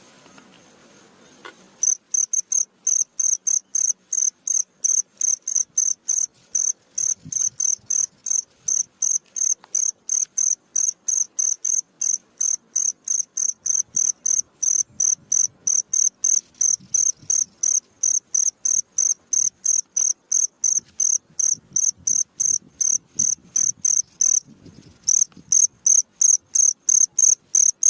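A cricket chirping: high-pitched pulses repeated evenly about three times a second, starting loud about two seconds in, with a short break near the end before resuming.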